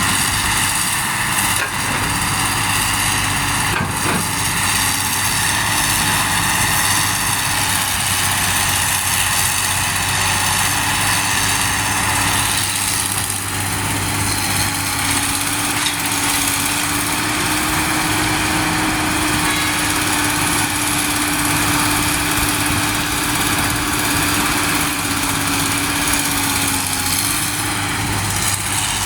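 Heavy trucks' diesel engines running steadily with an even hum.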